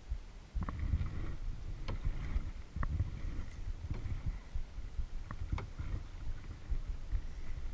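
Kayak paddle strokes through lake water: a recurring splash about every second or so, with sharp taps and drips between strokes, over a steady low rumble.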